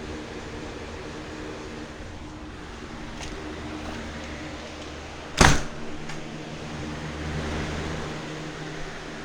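Lasko box fan running with a steady hum. About five seconds in there is one sharp, loud click or knock, after which the hum settles onto a different, lower tone.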